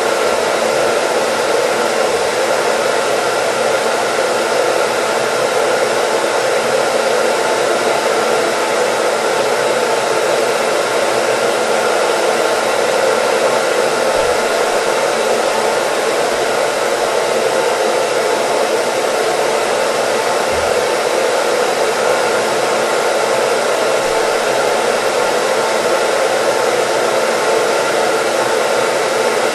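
Hair dryer running continuously: a steady, even blowing noise with a constant motor hum and no change in speed.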